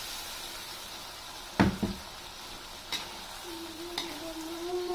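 Fried eggplant sizzling in a wok of sambal as a metal spatula stirs it. A loud metallic clank against the wok comes about one and a half seconds in, and lighter knocks follow at about three and four seconds.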